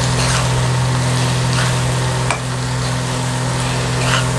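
Chopped okra frying in oil in a kadai, sizzling while a spatula stirs and scrapes through it, with a few short scrapes against the pan. A steady low hum runs underneath.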